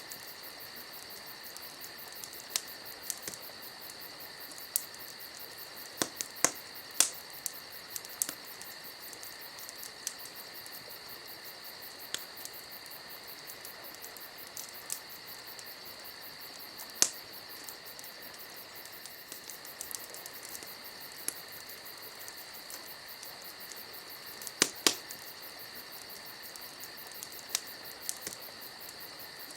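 Campfire crackling with irregular sharp pops, now and then a louder crack, over a steady high chirring of crickets.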